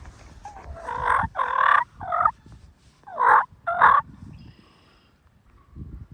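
Wild turkey gobblers gobbling: two loud gobbles, the first about a second in and the second about three seconds in.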